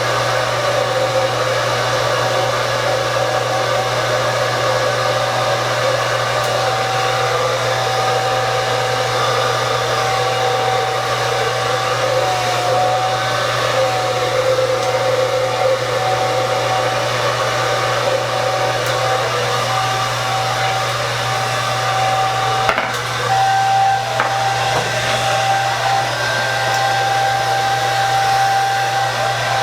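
Handheld hair dryer running steadily while drying hair: a continuous rush of air with a steady whine and low hum. Its sound dips briefly with a click about two-thirds of the way through.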